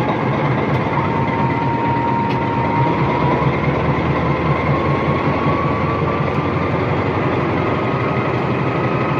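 Diesel engine of a CC 201 diesel-electric locomotive running steadily with a deep rumble, while a thin whine rises slowly in pitch.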